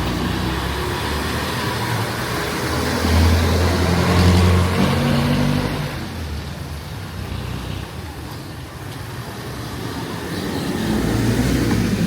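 Street traffic: a motor vehicle's engine passes close, loudest about three to five seconds in, and another comes up near the end, over a steady hiss.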